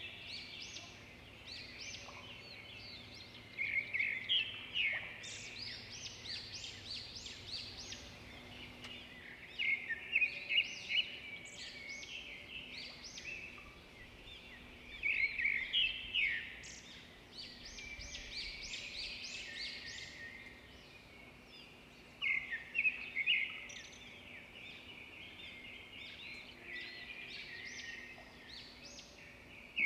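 Zebra finches chirping steadily, with a louder burst of quick, rapid notes about every six seconds.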